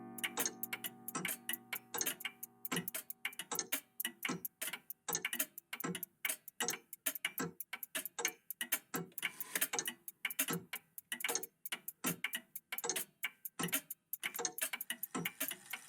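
Several old mechanical clocks ticking together, their ticks overlapping into a dense, uneven patter of several clicks a second. A lingering ring fades away in the first second or two.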